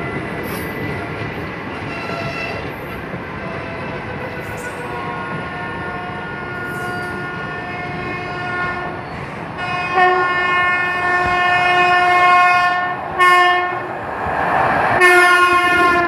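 Indian Railways passenger coaches rolling past at speed with a steady rumble, while a train horn sounds, faint at first, then a long loud blast about ten seconds in, a short blast, and another blast near the end.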